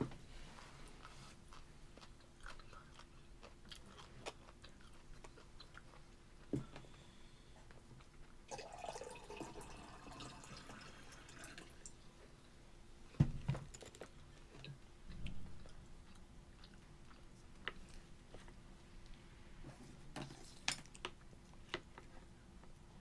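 A toddler chewing food, with small clicks of a fork against a plastic plate and high-chair tray, and a couple of dull knocks about halfway through.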